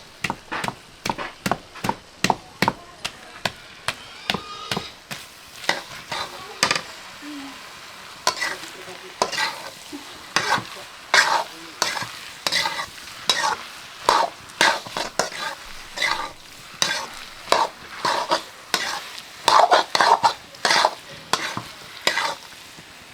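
A spoon or ladle stirring egg and potato curry in a pan, knocking and scraping against the pan about two or three times a second, over the steady sizzle of frying.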